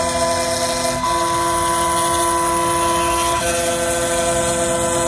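Desktop CNC machine milling a phone IC chip: a steady machine whine made of several tones, which change pitch about a second in and again just past three seconds as the cutting moves change.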